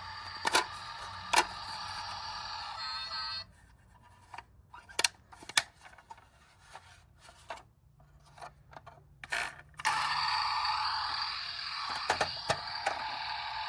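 Toy cars cracking and snapping as a heavy wheel rolls over them: about seven sharp cracks, spread out, over background music that drops out for several seconds in the middle.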